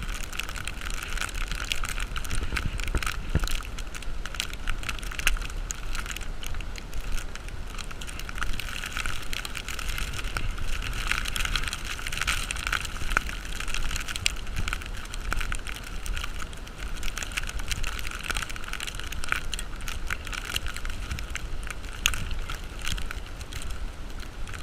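Snowstorm ambience of wind and falling snow: a steady hiss with many small crackles throughout.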